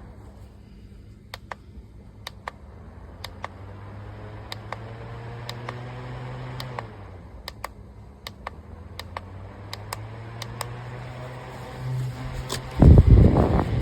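A low motor hum that swells and fades twice, with scattered sharp clicks throughout and a loud rumbling burst near the end.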